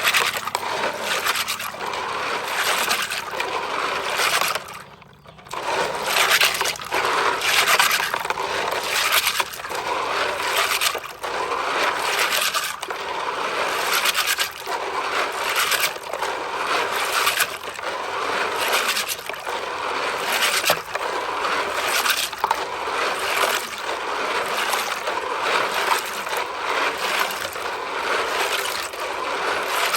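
Continuous scraping and clattering of hard objects, with many sharp clicks, dropping away briefly about five seconds in.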